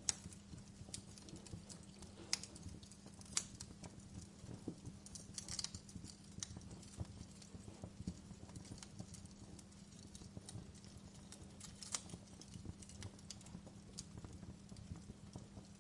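Wood fire crackling: irregular sharp pops and snaps of burning logs over a steady low rumble of the flames, with a few louder pops.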